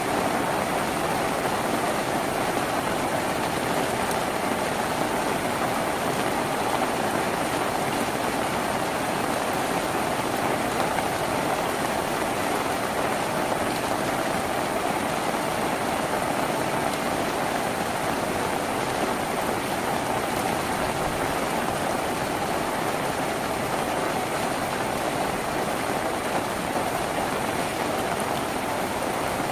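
Rain falling steadily on a tin roof: a dense, even patter that keeps the same level throughout.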